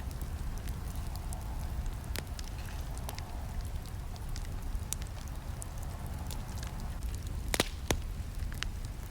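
Campfire crackling: a steady low rush of burning with scattered sharp pops and snaps, the loudest a pair about seven and a half seconds in.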